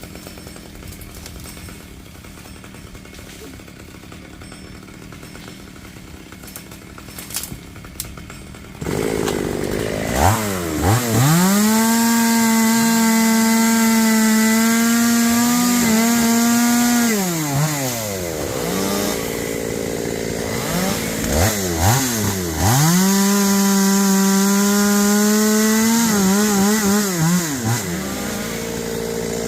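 Two-stroke chainsaw starting up about nine seconds in and revving to full throttle. It holds a high, steady pitch for several seconds, drops back to a lower run, then revs up and holds full throttle again, as in cutting into a melaleuca trunk. Before it comes in there is only a fairly quiet background with a few faint clicks.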